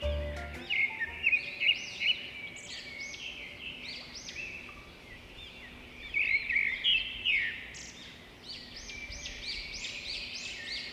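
Small birds chirping and singing, many short high arching calls overlapping without a break.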